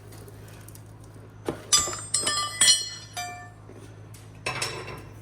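Metal hand tools (wrenches and sockets) clinking and clanking as they are handled, with bright ringing. A quick run of clinks comes in the middle and one more near the end, over a steady low hum.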